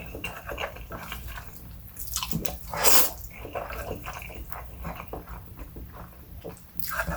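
Close-miked eating of instant pancit canton noodles: wet chewing and mouth noises in irregular bursts, loudest about three seconds in.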